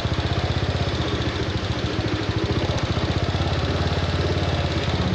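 Motorcycle engine running steadily with an even, rapid pulse, heard from on the bike.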